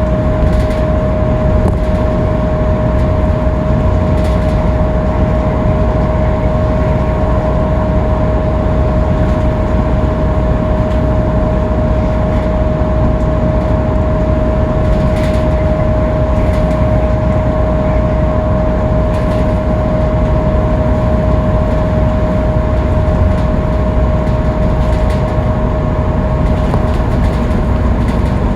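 Scania K310UB city bus cruising at speed on a freeway: a steady engine and road rumble with a constant high whine running over it. Now and then there is a faint click or rattle.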